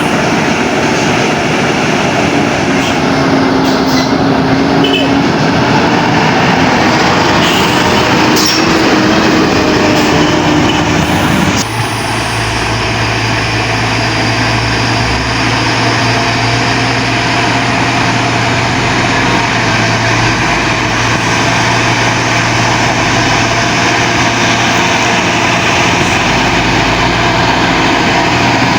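Heavy truck engine running under load, a loud steady drone; about twelve seconds in the sound changes abruptly to a steadier low hum.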